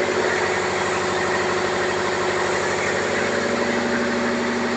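Ship's engine-room machinery running steadily: a diesel engine's constant hum with a fast, even pulse and no change in speed.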